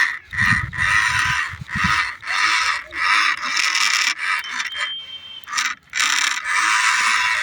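Remote-control toy tractor's small electric motor and gearbox whirring in repeated on-off bursts as the throttle is pulsed, with its wheels scraping over soil.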